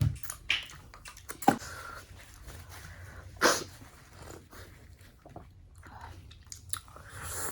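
Close-up eating sounds: a person chewing momos with mouth clicks and smacks, and a couple of louder wet mouth noises about one and a half and three and a half seconds in.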